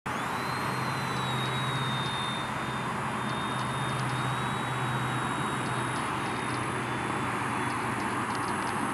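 Small RC helicopter's electric motor and rotor running, a steady high-pitched whine over a whirring rush, the whine rising slightly just at the start and then holding.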